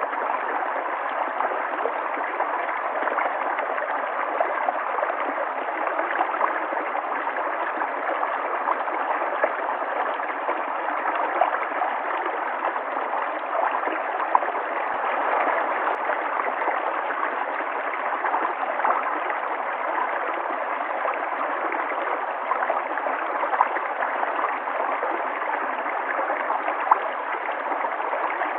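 River water flowing, a steady rush with small gurgles and splashes flecked through it.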